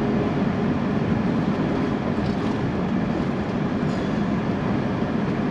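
Steady engine and road rumble inside a semi truck's cab while cruising on the highway.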